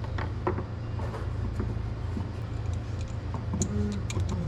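Scattered light clicks and knocks of sprayer parts being handled and fitted, over a steady low rumble.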